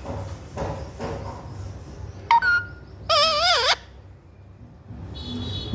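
Pet parrot calling: a short rising note a little over two seconds in, then a louder, wavering, warbling call about half a second long just after three seconds.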